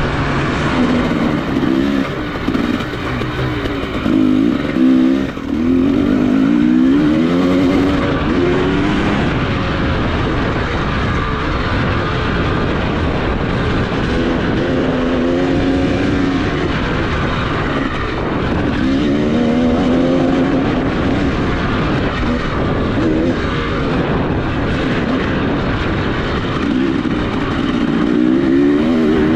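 Off-road motorcycle engine being ridden hard, its pitch repeatedly climbing and dropping as it revs up and shifts or backs off throughout.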